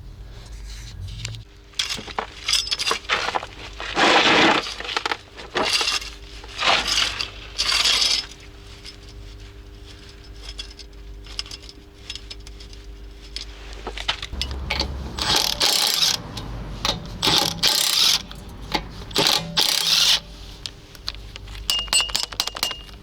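Metal tools and car parts clinking and scraping in a run of short, loud bursts while a car is jacked up and its wheel taken off.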